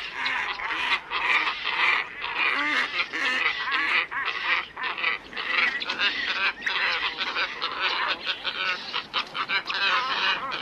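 Lure recording of a flock of black ibises calling: many hoarse, honking calls overlapping without a break.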